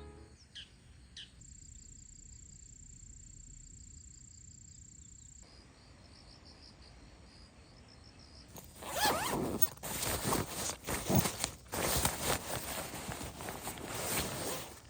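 A zipper, most likely a tent door zipper, pulled in a run of loud rasping strokes for about six seconds, starting about halfway through. Before it, a faint high insect drone.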